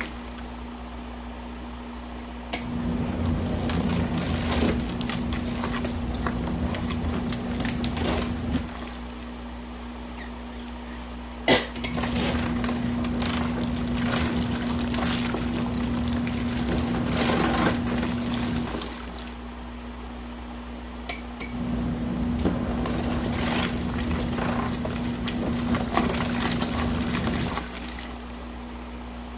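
Compact RV washing machine agitating a load of jackets in hot water at a high water level. Water sloshes and churns in stretches of about six seconds, each broken by a pause of about three seconds, over a steady hum. A sharp click sounds as the second stretch starts.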